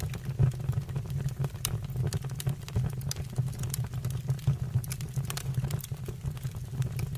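Fire burning in a fireplace, crackling with irregular sharp pops and snaps over a steady low rumble.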